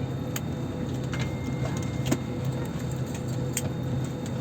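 Airbus A320-family airliner cabin noise: the steady low hum of the jet engines and air system, with a couple of light clicks, one about half a second in and one about three and a half seconds in.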